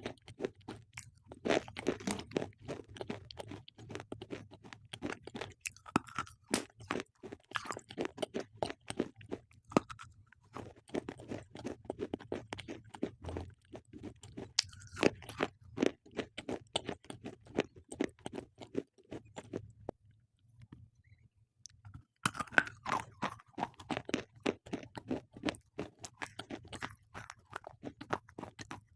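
Slate pencils being bitten and chewed close to the microphone: a fast run of sharp, gritty crunches. It pauses for a couple of seconds about two-thirds of the way through, then resumes.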